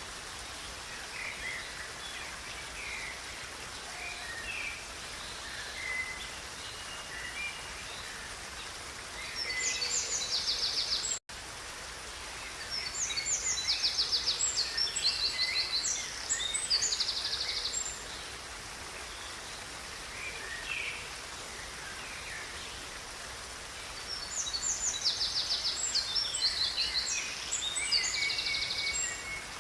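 Steady rushing of a river under songbirds singing rapid, trilling phrases in three bouts, with scattered single chirps between them. The sound cuts out for an instant about 11 seconds in.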